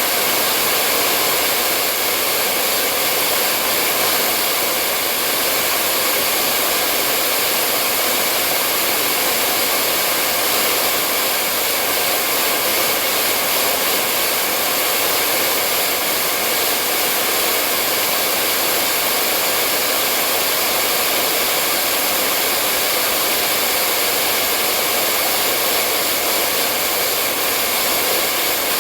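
Hair dryer blowing with a steady, unchanging whoosh of rushing air.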